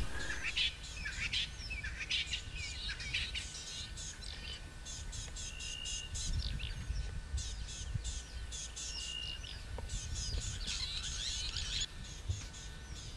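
Several small birds chirping and calling throughout, with two short whistled notes about six and nine seconds in, over a faint steady high hum and a low background rumble.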